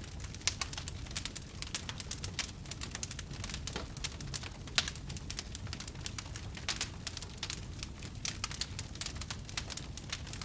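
Wood campfire burning, with steady dense crackling and popping, a few sharper pops standing out, over a low rumble of flame.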